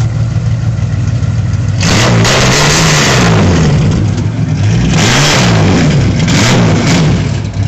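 Chevrolet Opala straight-six engine idling with a loud exhaust rumble, then revved several times from about two seconds in, the pitch rising and falling with each blip.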